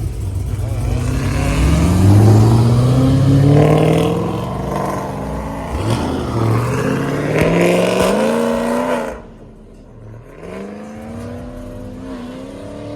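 A car engine accelerating hard in several rising runs, its pitch climbing and falling back again and again. About nine seconds in it drops away sharply, and a quieter engine rises again near the end.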